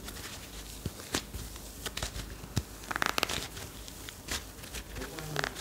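Clay slime, gone stiff, being handled, squeezed and pulled apart by hand, giving scattered sharp clicks and crackles, with a denser burst of crackling about three seconds in.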